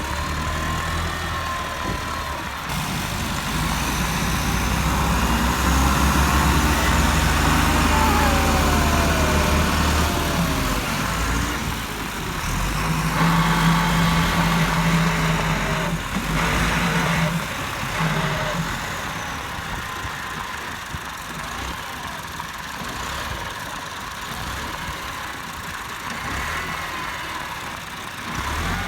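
Tractor engines running hard under load while pulling a stuck trolley free, rising to two long louder stretches and easing back to a steadier run in between and near the end.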